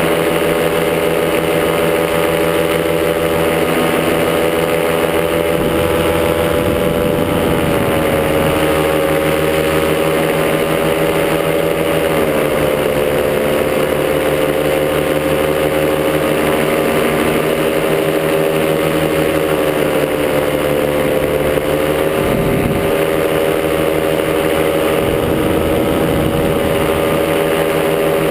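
Top80 two-stroke paramotor engine and propeller running steadily at cruise power, a constant drone whose pitch dips slightly a few times as the throttle eases off.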